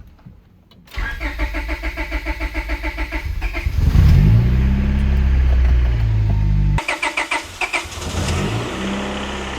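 First start of a freshly rebuilt Honda H22 2.2-litre four-cylinder VTEC engine. The starter cranks it for about three seconds, the engine catches and runs for about three seconds, then cuts out. It is cranked again briefly, catches and settles into a steady run.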